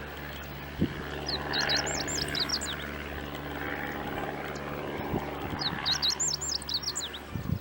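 A bird chirping in two quick runs of short high notes over the steady low drone of a light propeller plane's engine.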